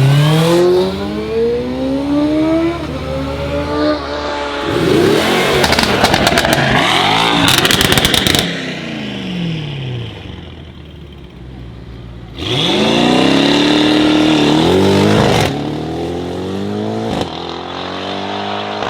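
Modified performance cars accelerating away one after another, engines rising in pitch through the gears. About halfway through comes a burst of sharp exhaust crackles, and later one car gives a sudden loud rev held for about three seconds before it cuts off.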